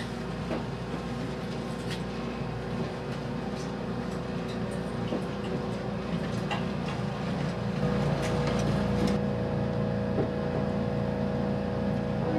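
Resort Shirakami tourist train running, its rumble heard inside the passenger cabin, with scattered light clicks. About two-thirds of the way through, a steady hum joins in and the running noise grows a little louder.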